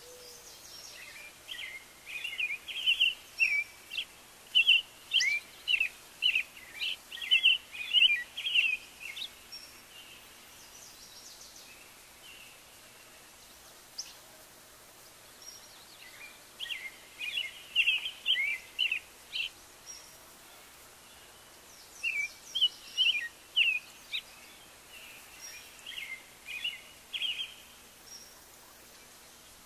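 Birds chirping: runs of rapid, high, short chirps lasting several seconds each, with quieter pauses between the runs.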